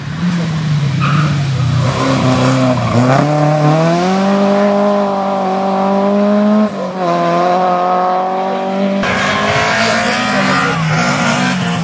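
Rally car engine working hard on a stage, its note climbing under acceleration and dropping sharply at a gear change about two-thirds of the way through. About nine seconds in it gets louder and rougher as the car nears.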